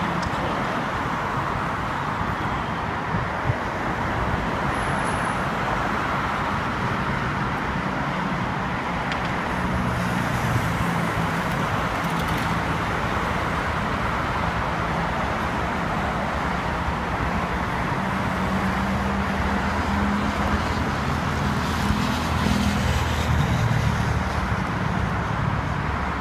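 A V-set electric intercity train running through the station without stopping, over a steady rumble of road traffic. Its low motor hum shifts in pitch and grows a little louder in the second half.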